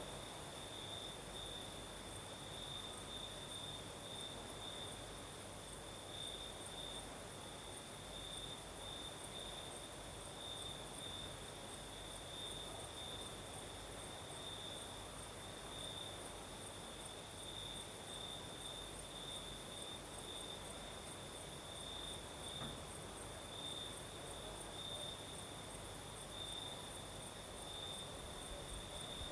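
Crickets singing at night: a continuous, evenly pulsing high trill, joined by a fainter, higher-pitched pulsing insect call, over a steady soft hiss.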